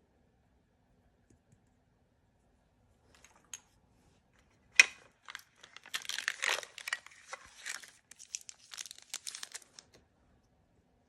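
Plastic blind-bag packaging being torn open and crinkled by hand: a few light clicks, one sharp snap a little before halfway, then several seconds of dense crinkling.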